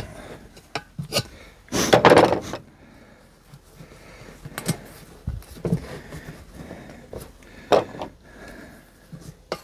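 Scattered knocks, clicks and rubbing from handling a tractor tire and inner tube on the rim, with a longer scraping rustle about two seconds in.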